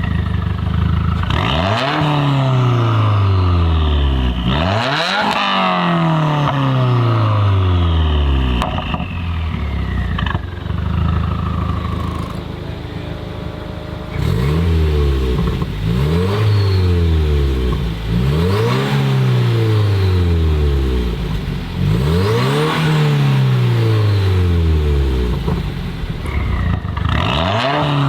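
Subaru WRX's turbocharged 2.0-litre flat-four (FA20) through a full titanium valved cat-back exhaust, revving up sharply and falling back about six times. There is a quieter, steadier stretch near the middle.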